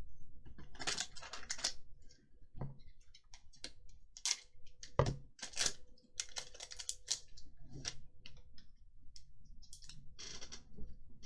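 Magic: The Gathering cards being handled: a quick, irregular run of clicks and swishes as cards are slid and flicked off one another and set down.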